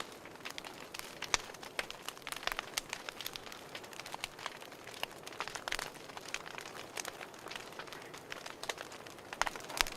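Fireplace crackling: a low steady hiss with frequent irregular snaps and pops of burning wood, a few louder pops among them.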